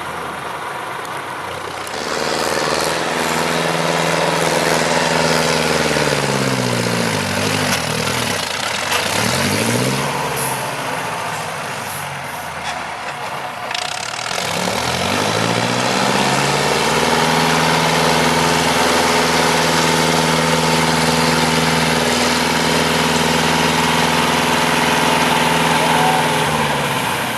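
IFA W 50 truck's diesel engine revving hard, its pitch rising and falling several times, then held high for about ten seconds before easing off near the end.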